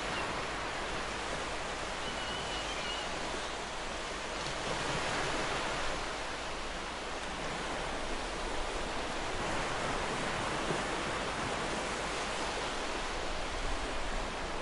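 Ocean surf washing onto a beach: a steady rush of breaking waves that swells and eases slowly.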